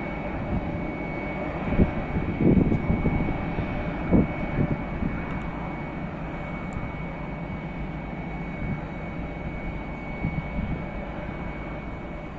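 Airbus A319 jet engines running, a steady low rumble with a thin steady whine above it; a couple of louder low thumps come about two and four seconds in.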